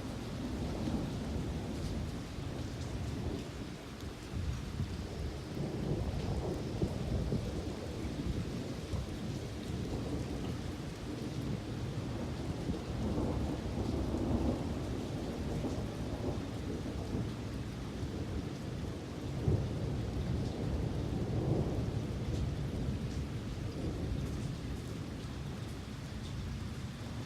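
Thunderstorm: steady rain with low rolling thunder rumbling throughout, swelling several times.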